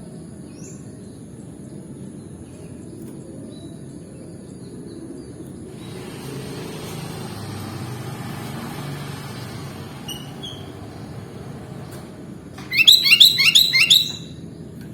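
Sooty-headed bulbul giving a loud, rapid run of about six sharp chirping notes near the end. Before it there are only a few faint chirps over a steady low background rumble that swells for a few seconds in the middle.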